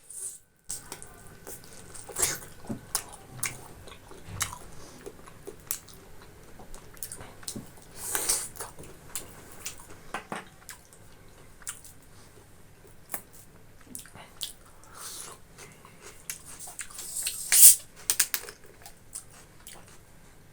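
A person chewing and biting food close to the microphone: irregular wet mouth clicks and smacks while eating boiled pork with rice and gravy, with a few louder bursts, the loudest near the end.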